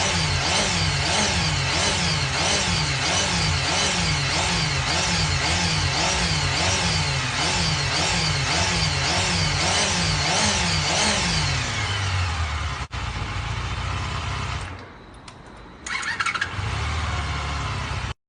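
Motorcycle engine revved in quick, even throttle blips, its pitch rising and falling about twice a second. After about eleven seconds it settles to a steady run, drops away for about a second near the end, then picks up again.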